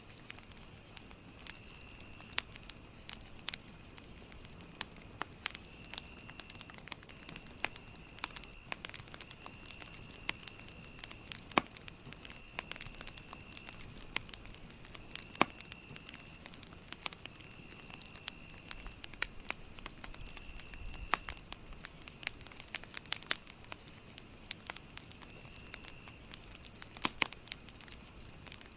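Campfire crackling, with irregular sharp pops throughout. Behind it insects chirp steadily: a high pulsing chirp about two or three times a second and a lower trill that comes and goes.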